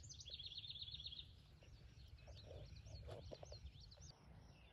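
Faint outdoor birdsong: a fast, high trill lasting about a second near the start, then a run of short rising and falling chirps, over a low steady rumble.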